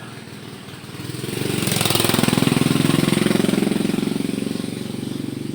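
A motor vehicle's engine passing close by, growing louder from about a second in and then slowly fading.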